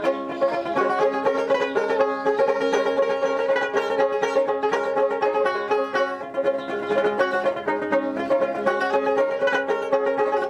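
Dotara, a fretless Bengali folk lute, being played: a quick, steady stream of plucked notes over strings that ring on as a drone.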